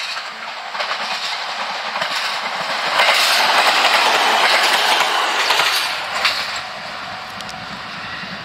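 Electric local train passing close by at speed: its wheel and running noise swells about three seconds in, stays loud for about three seconds with a few sharp clacks, then falls away.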